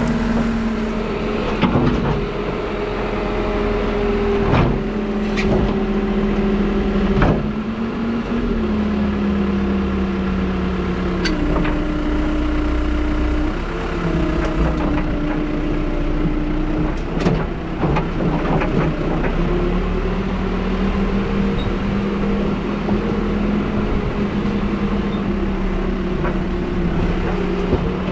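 New Holland backhoe loader's diesel engine running steadily while digging, its note sinking through the middle and rising again later. Several sharp knocks stand out over it, a few in the first eight seconds and a cluster around seventeen to eighteen seconds in.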